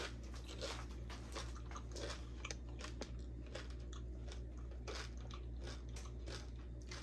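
Close-up chewing and biting of crispy fried egg roll, a steady run of small irregular crunches.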